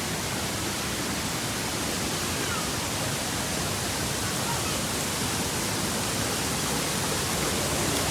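Steady rushing of a waterfall, an even noise from low to high pitches that grows a little louder near the end.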